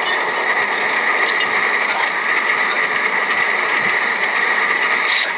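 Train running on its rails: a steady, dense mechanical rattling and clatter.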